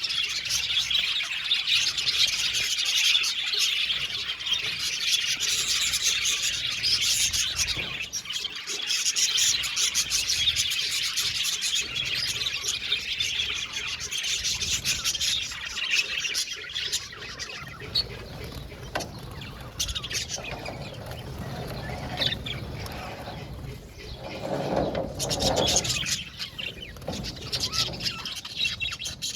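A flock of budgerigars chattering and chirping continuously, densest in the first half and thinning out later. A few lower, louder calls come near the end.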